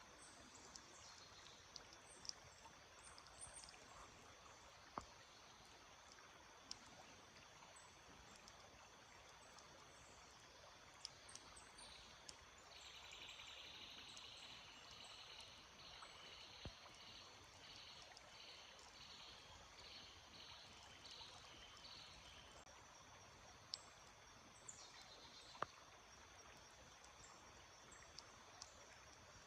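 Faint, steady trickle of a small stream, with scattered short, high bird chirps. For about ten seconds in the middle a bird repeats a buzzy call roughly once a second.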